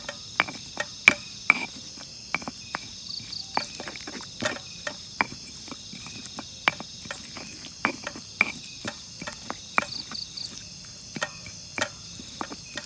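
Stone pestle knocking and grinding in a stone mortar while sambal is being made: irregular sharp knocks, roughly two a second. A steady drone of crickets runs behind.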